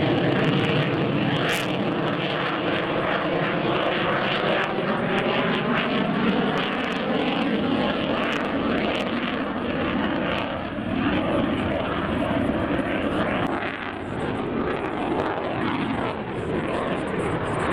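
Aircraft engine running in flight: a steady, loud drone whose pitch slowly falls as the plane passes.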